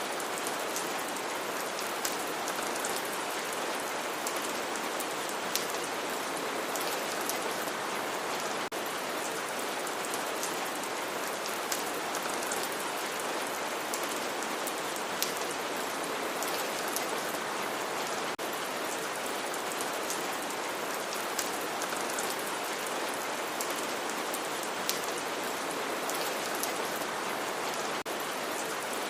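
Steady rainfall hissing evenly, with scattered individual drops ticking on a surface.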